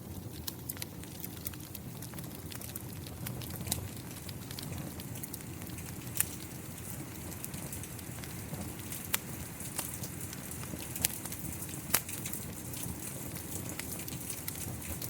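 Wood fire crackling, with scattered sharp pops, over a steady hiss of falling rain. The loudest pops come about six seconds and about twelve seconds in.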